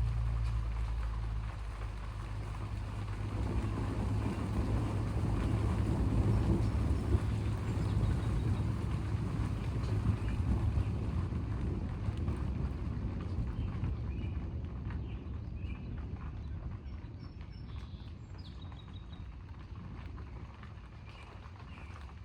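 Long rolling thunder rumble that builds for the first few seconds, peaks about a third of the way in, and then slowly dies away.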